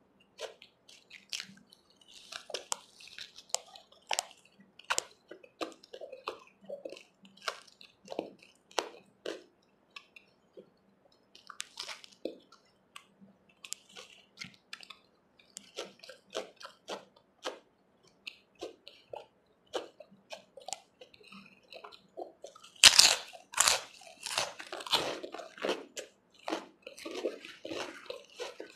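Close-miked chewing and mouth sounds of someone eating puri with chole: a steady run of soft wet smacks and clicks. About two-thirds of the way through comes a louder crackling burst lasting a few seconds.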